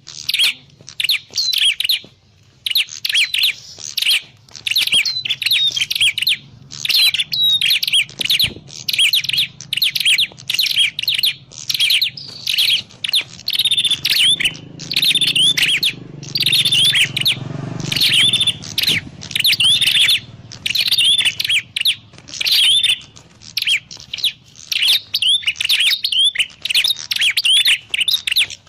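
Prinia ('prenjak klawu') calling without pause: rapid, loud phrases of high chirping notes, one after another with only short breaks.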